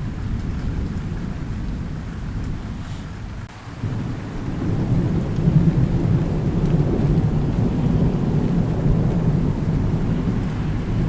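Thunder rumbling low and long over steady rain; the rumble dips briefly, then a new roll swells up about four seconds in and keeps on.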